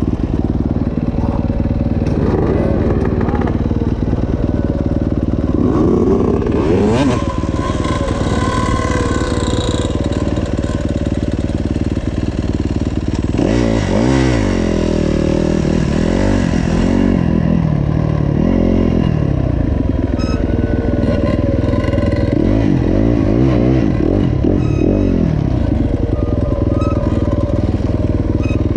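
Motocross bike engine running hard throughout, revving up and falling back several times: about six seconds in, again from around thirteen to nineteen seconds, and around twenty-two to twenty-five seconds.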